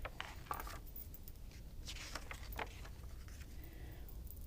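Pages of a picture book being handled and turned: faint paper rustles with light clicks, once at the start and again about two seconds in.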